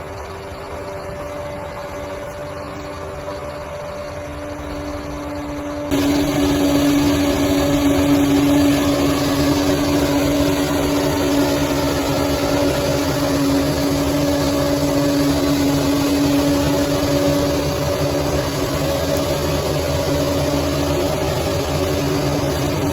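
Bulldozer's diesel engine running steadily with a constant hum; about six seconds in the sound abruptly becomes louder and holds at that level.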